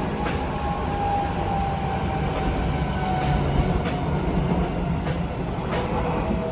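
Seibu 20000 series electric train with a Hitachi IGBT-VVVF inverter, heard from inside the car: a steady low running rumble with scattered rail-joint clicks. Over it, a faint traction-motor and inverter whine falls slowly in pitch as the train slows, and a new, lower whine starts near the end.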